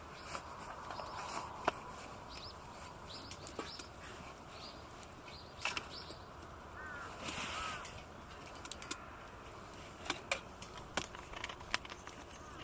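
Wild birds calling: a run of short, high chirps, then a few lower arched calls, over scattered sharp clicks and a brief rustle.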